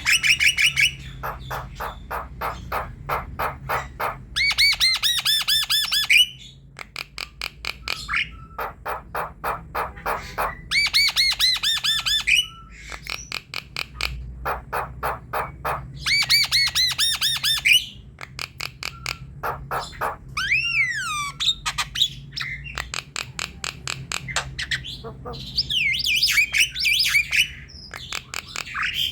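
Javan myna singing a chattering song: runs of rapid repeated clicking notes, broken up by harsh squawky phrases and, a little past the middle, a few wavering whistled glides.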